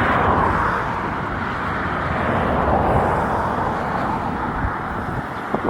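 Steady outdoor background noise: a low rumble with a hiss, easing slightly after the first couple of seconds, with no distinct events.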